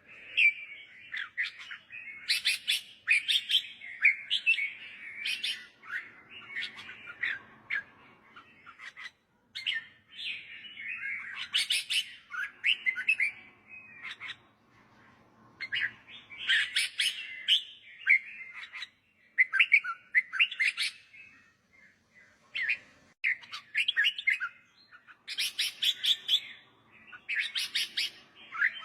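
Caged red-whiskered bulbul singing: short, quick whistled phrases, repeated again and again with brief pauses between them.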